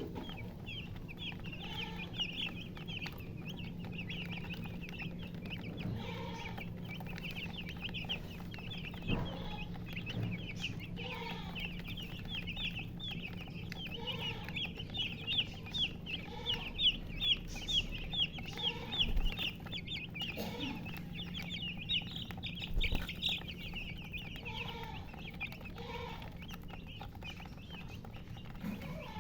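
Chicks peeping rapidly and without a break, several high peeps a second, while a hen clucks low every second or two. A steady low hum runs underneath.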